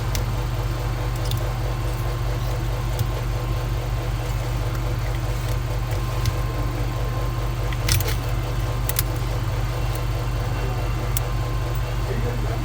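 Steady low electrical hum from the repair bench, with a few small, sharp metallic clicks and clinks of tools on the phone, the clearest about eight and nine seconds in.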